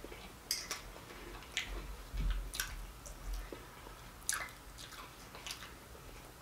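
A person chewing food close to the microphone: scattered soft, wet mouth clicks and smacks.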